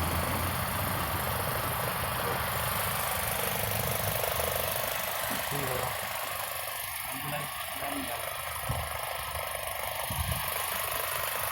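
Car engine idling under a steady hiss, as during an AC refrigerant recharge on a Hyundai i20. The low rumble eases about six seconds in, and a few light knocks follow.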